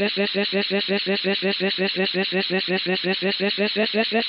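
A steady, rapid pulsing buzz with a definite pitch, about nine pulses a second, repeating evenly like a looped sound effect.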